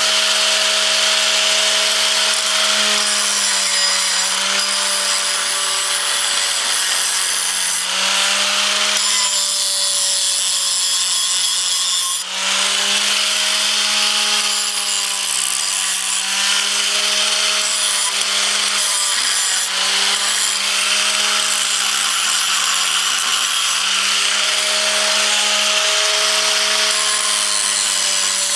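Electric grinder running without pause against galvanized steel, grinding away the zinc coating where a weld will go. The motor tone sags and recovers several times as the disc bites under load.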